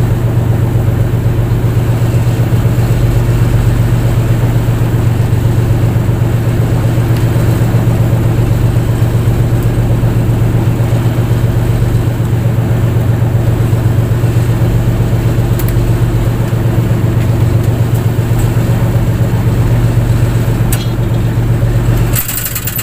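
A fishing boat's engine running at a steady pace, with an even, deep hum. The level dips briefly just before the end.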